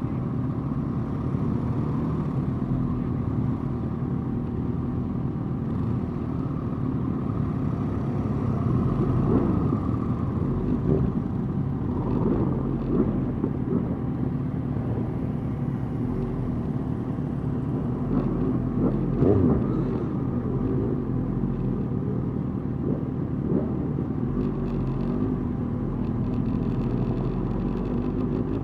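Motorcycle engines running at low parade speed, with short rises in revs now and then.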